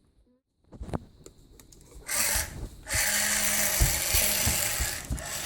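Remote-control toy monster truck's small electric motor whirring as it drives: a short burst about two seconds in, then a longer run of about two seconds with a steady hum under it.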